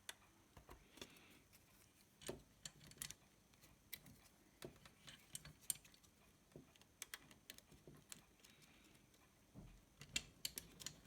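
Faint, irregular small clicks and taps as ribbon cables are pushed into their connectors and the car stereo's boards are handled.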